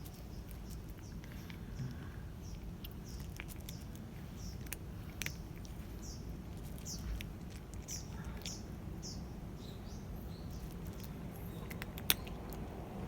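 A small bird chirping repeatedly outdoors, short high chirps coming about once or twice a second, over a low steady hum with scattered sharp clicks and one louder click near the end.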